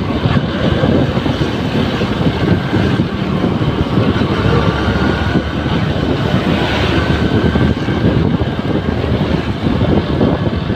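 Honda New Megapro's single-cylinder engine running steadily under way, with wind buffeting the microphone.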